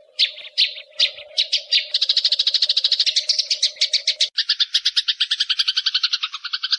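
Bird chattering: a few separate sharp chirps, then a fast, even run of chirps of about eight to ten a second that changes about four seconds in to a lower, fuller trill. A steady low hum runs under the first part and stops at the change.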